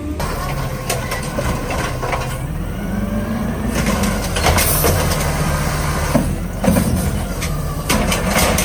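Garbage truck's diesel engine revving up and down while working, with metallic clanks and a burst of air hiss about four and a half seconds in.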